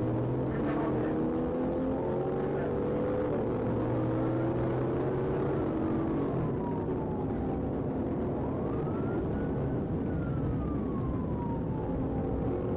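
Police siren on a slow wail, rising and falling about twice, over the steady sound of a car engine running.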